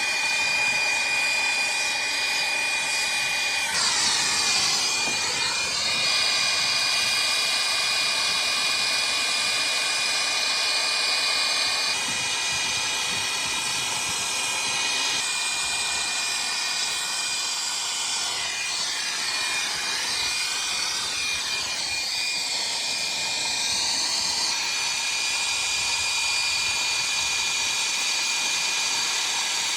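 Oxy-acetylene brazing torch burning with a steady hissing rush while a replacement compressor's copper refrigerant lines are brazed in. Its tone shifts twice, about four seconds in and again around twenty seconds, as the flame is moved.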